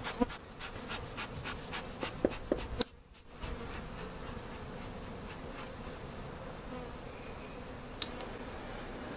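Honey bees buzzing in a steady hum around the hive. A quick run of sharp clicks and knocks comes in the first three seconds, the sound drops out briefly around three seconds in, and one more click comes near the end.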